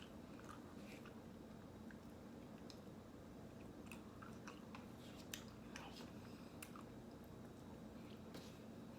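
Faint close-up eating sounds of ice cream being chewed: scattered soft wet mouth clicks, a cluster of them about four to seven seconds in, over a low steady room hum.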